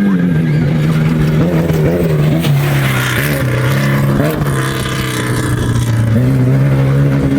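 Off-road race vehicle's engine running loud and close as it passes. The pitch drops near the start, wavers with short throttle changes in the middle, then rises again near the end.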